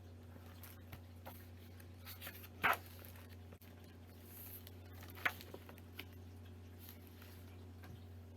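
A few short rustles and taps of a paper picture book being handled, the two loudest about a third and two thirds of the way through, over a steady low electrical hum.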